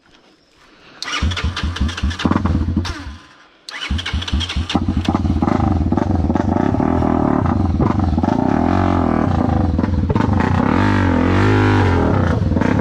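Honda CB motorcycle engine started after a quiet pause, running in rough pulses for a couple of seconds, dipping out briefly, then catching again and running steadily. Near the end it is revved up and down repeatedly.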